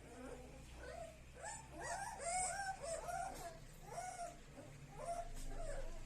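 Young puppies of a native Indian country dog whimpering and yelping: many short, high cries that rise and fall, overlapping and coming again and again.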